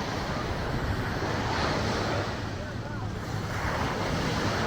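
Ocean surf washing on a sandy beach, with wind buffeting the microphone and faint voices of people mixed in.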